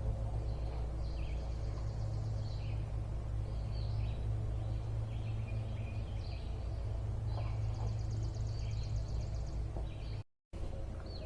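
Songbirds chirping repeatedly over a steady low rumble. The sound cuts out completely for a moment near the end.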